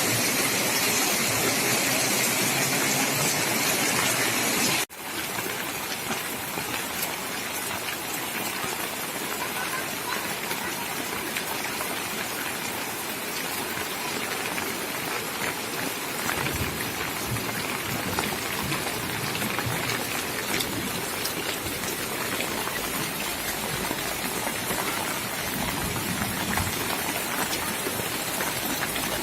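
Steady rain falling. About five seconds in the sound cuts out for an instant and resumes a little quieter, with more low rumble in the second half.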